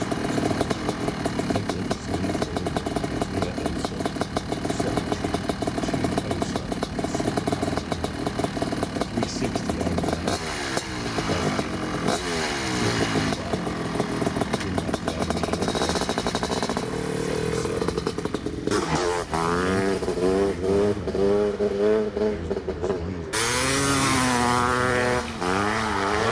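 A 1972 OSSA Super Pioneer's single-cylinder two-stroke engine running with a fast, popping exhaust beat. About halfway in the revs start rising and falling, and in the last several seconds it is revved up and down harder and more often.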